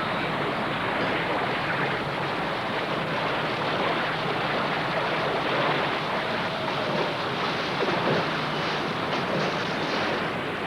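Floodwater rushing down a riverbed in a steady, unbroken roar of moving water.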